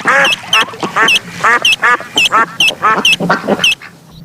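Duck quacking in a quick run of short, repeated quacks that stop shortly before the end.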